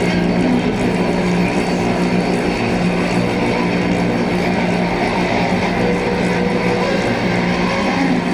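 Drone-noise music: a dense, sustained low drone of steady held tones under a thick layer of hiss and grinding noise, with no beat.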